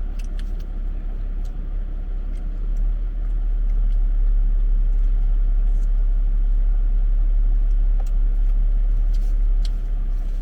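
A steady low rumble that grows louder about three seconds in and eases near the end, with a few faint clicks of eating over it.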